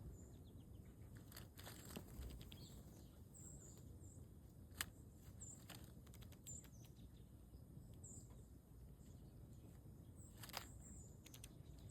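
Faint high chirps of small wild songbirds, short calls coming about once a second, with a few sharp clicks and taps scattered through.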